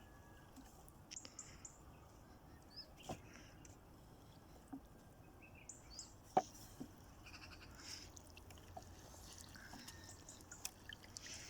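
Faint, short, high-pitched bird chirps, scattered through, with a few light knocks; the sharpest knock comes about six seconds in.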